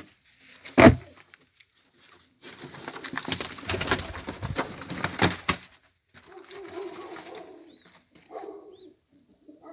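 Domestic pigeons cooing in low, soft phrases. A single sharp knock sounds about a second in, the loudest thing here, and a few seconds of rustling, clattering noise follow in the middle before the cooing.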